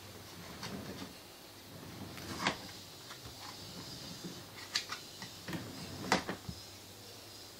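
A baby walker bumping and clattering as a baby pushes it: a handful of light, separate knocks and clicks, the loudest about two and a half seconds and six seconds in.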